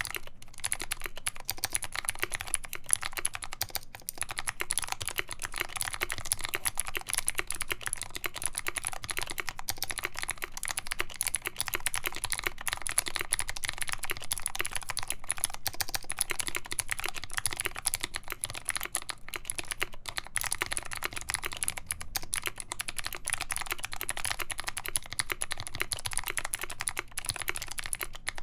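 Fast continuous typing on a KBD75v2 mechanical keyboard with a full brass plate, Kailh Speed Gold clicky switches lubed with Krytox 205g0, and PBT keycaps: a dense stream of crisp key clicks with a few brief pauses.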